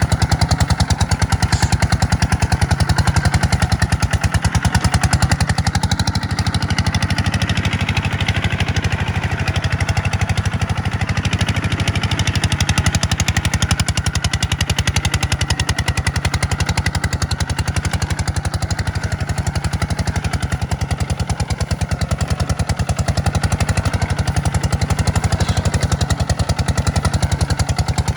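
Kubota tractor's diesel engine running steadily under way, a fast even clattering beat.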